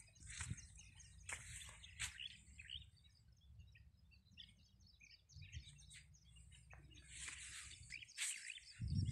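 Birds chirping faintly in many short, high chirps, over a low rumble on the microphone and a few soft knocks.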